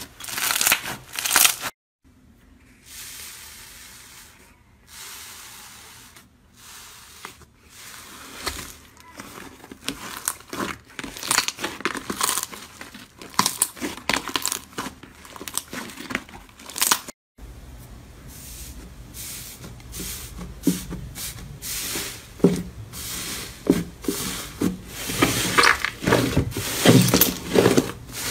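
Slime being squeezed and worked by hand, giving a dense run of small crackles and pops. It comes as three separate clips, with sudden breaks about two seconds in and about seventeen seconds in.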